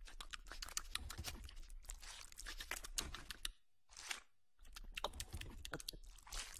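Fried chicken skin being torn off and chewed: a dense run of small crackles and clicks, broken by a short pause about three and a half seconds in.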